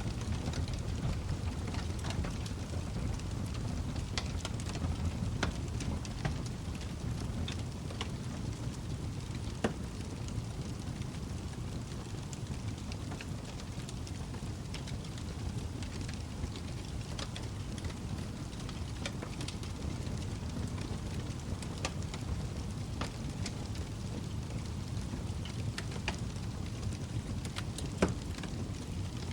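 Log fire burning with a steady low rumble and scattered sharp crackles and pops, the loudest pop near the end.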